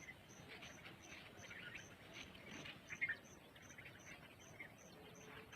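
Faint, scattered bird chirps, the sharpest about three seconds in, over an insect ticking steadily about two and a half times a second.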